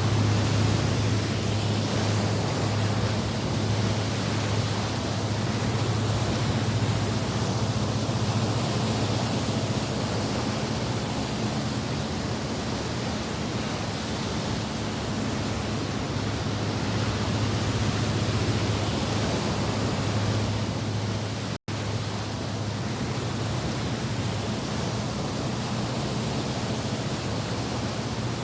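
Steady rushing noise with a low, even drone underneath, cutting out for an instant about three-quarters of the way through.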